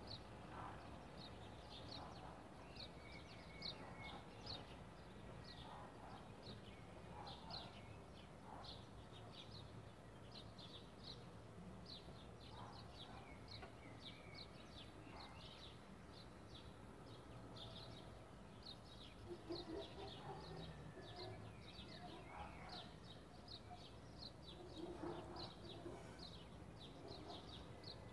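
Faint chirping of small birds, short high chirps repeating every fraction of a second, over a steady low background noise.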